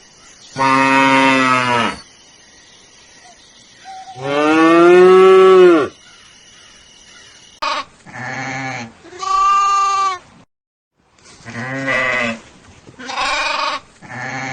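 Livestock bleating: two long drawn-out calls, the second sliding down in pitch near its end, then a string of shorter calls. A brief dead silence about two-thirds of the way through, where the clips are spliced.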